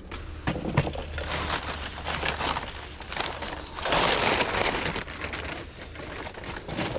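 Rummaging through debris: crinkling and crushing of loose junk with scattered knocks and clicks, and a louder stretch of rustling about four seconds in.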